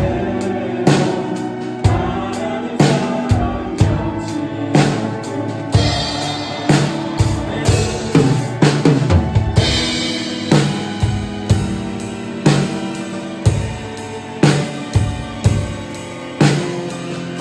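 Drum kit played along to a recorded worship song: kick and snare in a steady beat over the backing track, with cymbal crashes about six and ten seconds in.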